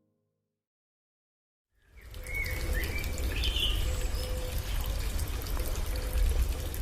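Silence, then about two seconds in, running water starts with a low rumble, and a few short bird calls come over it soon after.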